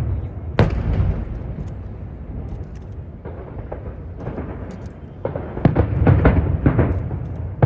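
Aerial fireworks shells bursting: a single sharp bang about half a second in that rumbles away, a lull, then a rapid run of bangs over the last two seconds or so.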